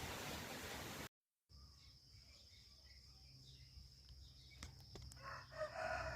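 Wind rushing over the microphone for about a second, then after a cut a faint outdoor scene with a steady high insect trill of crickets, and a call rising up near the end.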